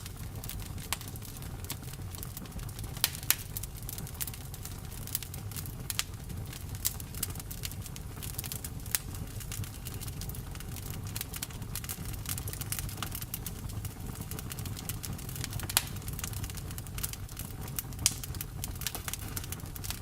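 Campfire crackling: wood snapping and popping in irregular sharp clicks, a few of them louder, over a low steady rumble.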